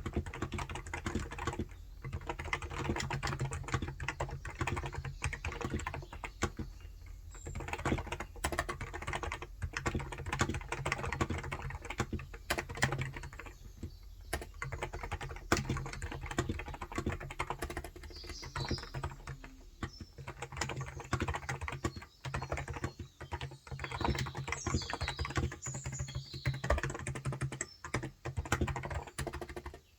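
Steady typing on a Cox Endeavor tenkeyless electro-capacitive (contactless) keyboard with 35 g switches: a dense run of soft keystrokes, broken by a few short pauses. Birds chirp faintly in the second half.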